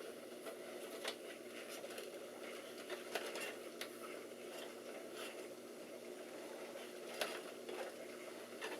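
Desktop PC cooling fans running steadily with a constant hum, the machine powered on but giving no video. Scattered sharp clicks and taps sound over it, about every second or two.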